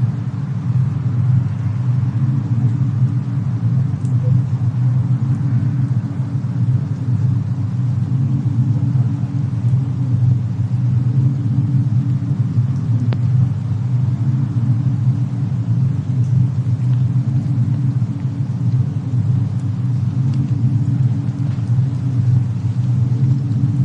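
Steady low rumble of a mixed fireplace-and-snowstorm ambience, even in loudness throughout, with a few faint crackles.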